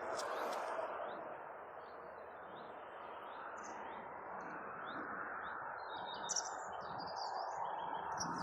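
Birds chirping: a short high call repeated roughly once a second, then busier twittering near the end, over steady background noise.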